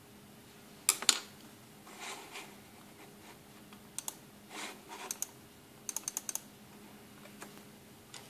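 Irregular taps and clicks of a computer keyboard: a pair about a second in, scattered single taps, and a quick run of about five around six seconds in. A faint steady hum runs underneath.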